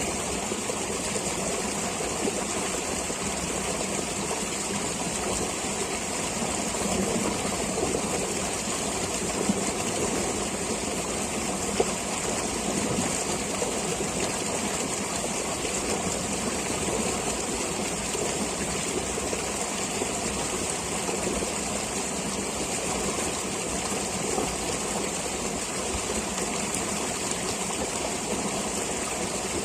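Stream flowing steadily, a continuous rush of water with no breaks.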